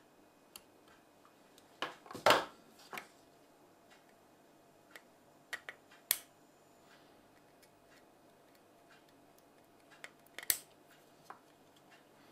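Scattered clicks and knocks of small tools or parts being handled during an electronics repair, loudest about two seconds in, about six seconds in and about ten and a half seconds in.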